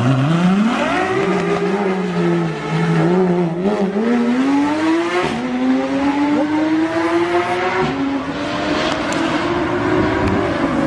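Car engine revving hard and held at high revs, its pitch climbing, dipping and climbing again.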